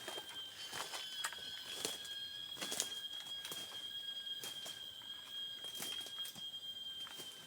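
White-rumped shamas giving sharp, irregular clicking call notes, over a steady high-pitched drone.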